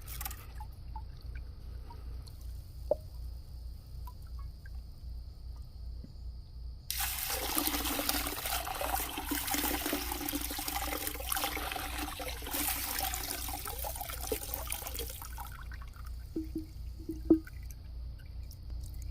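Water and grit slurry pouring out of a rock tumbler barrel of stage-one railroad chert, starting about seven seconds in and stopping some eight seconds later.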